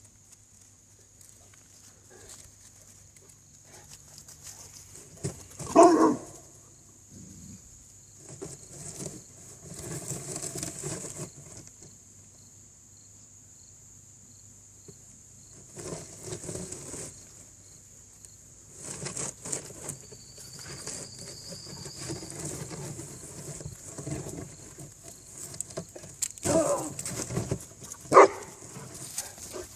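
A dog making short vocal sounds, the loudest about six seconds in and a couple more near the end, between quieter scuffling noises.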